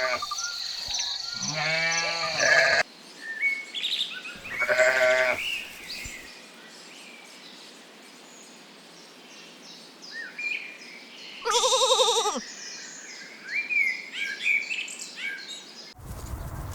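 Sheep bleating four times: near the start, about two seconds in, about five seconds in, and a higher-pitched bleat about twelve seconds in. Small birds chirp between the bleats.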